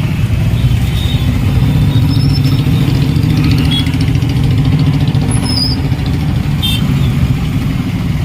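A motor vehicle running steadily on the move, with a continuous low engine and road rumble.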